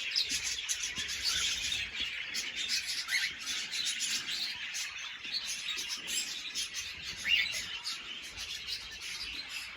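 Many aviary birds chirping and twittering at once in a dense, continuous chatter, with one louder call about seven seconds in.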